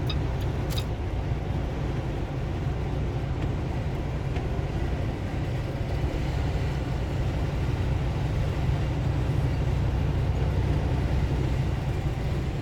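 Steady low rumble of a semi-truck's engine and road noise inside the cab while driving, with a brief click just under a second in.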